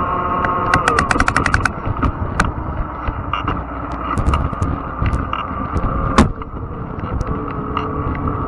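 Fat-tire electric bike riding a rough trail: a steady low rumble of the tyres under a high motor whine. About a second in the whine drops away under a quick run of about ten clicks, and scattered ticks and knocks follow before the whine returns.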